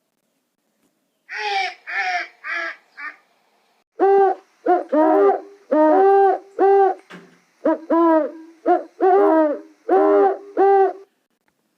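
Repeated animal calls: a short run of four harsh calls, then from about four seconds in a steady series of clear, arching calls, roughly two a second.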